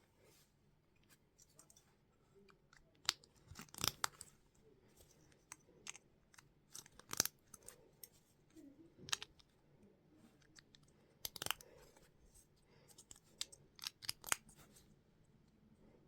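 Plastic Lego pieces being handled and pressed together: scattered sharp clicks and snaps with light rustling in between, the loudest about 4, 7, 11 and 14 seconds in.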